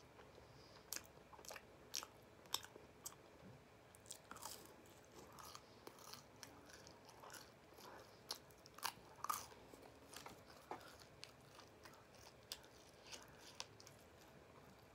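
A person chewing a small fried snack close to the microphone: faint, scattered crunches and wet mouth clicks.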